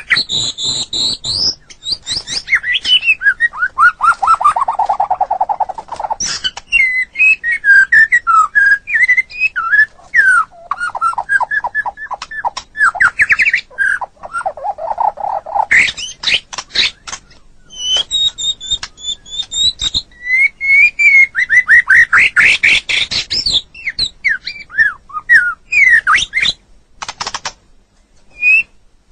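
White-rumped shama (murai batu) singing a long, varied song: fast chattering runs, trills and whistled notes sliding up and down in pitch, with short pauses between phrases.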